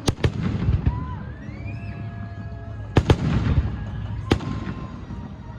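Fireworks going off: a quick pair of sharp bangs at the start, another pair about three seconds in and a single bang a little after four seconds, with a rising whistle between them.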